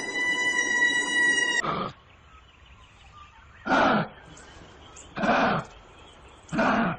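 A steady high tone with overtones, held for about a second and a half and then cut off, followed by a frog croaking three times, each croak short and about a second and a half apart.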